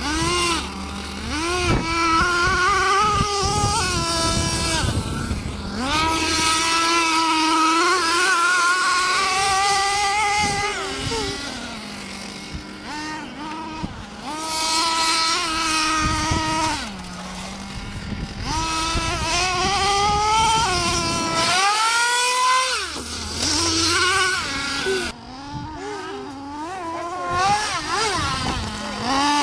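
Small two-stroke engines of RC monster trucks revving hard and easing off over and over, the whine's pitch climbing and dropping as the trucks are driven, jumped and landed.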